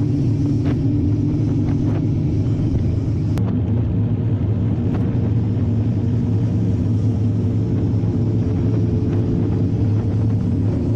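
Steady low rumble of wind buffeting the camera microphone and tyre noise from a mountain bike on a trail, with a few faint sharp ticks.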